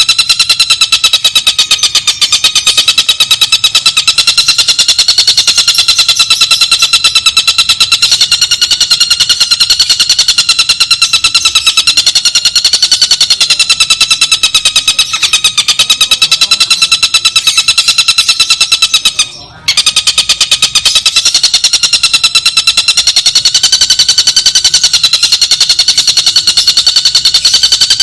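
Tengkek buto (a kingfisher) calling in a fast, unbroken rattling trill that keeps a steady pitch. It cuts out briefly about 19 seconds in.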